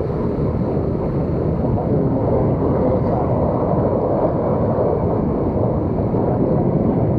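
Steady wind noise on the microphone of a moving motorcycle, mixed with engine and road noise.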